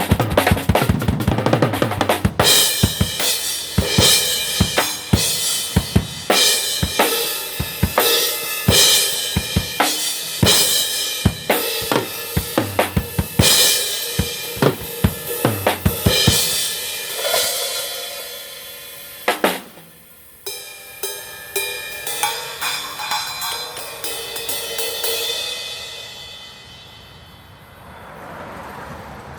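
A drum kit being played: a steady run of drum and cymbal strikes that thins out after about halfway and dies away near the end.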